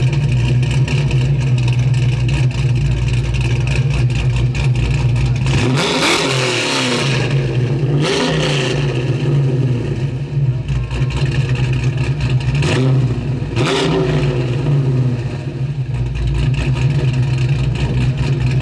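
A muscle car's engine idling with a steady rumble, revved briefly three times, about six, eight and thirteen seconds in.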